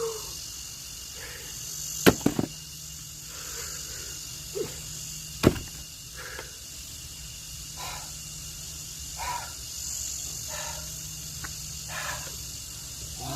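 Axe chopping into logs: two sharp strikes about three seconds apart, the first followed by a couple of quick knocks.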